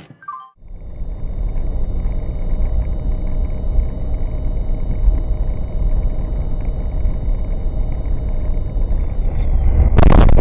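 A car driving, heard from inside: steady low engine and road rumble. Near the end comes a sudden, very loud bang.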